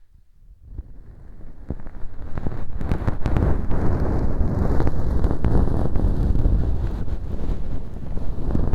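Ear pick scraping and crackling at hard, glue-stiffened bits of dried wheat gluten (fu) stuck as fake earwax inside a transparent ear model, right at the microphone. It starts almost silent, builds over the first couple of seconds, then runs as dense close scratching full of tiny crackles.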